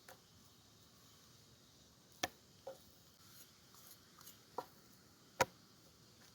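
A handful of short, sharp clicks and knocks, five or so spaced a second or two apart, the loudest a little after five seconds, over a faint steady hiss.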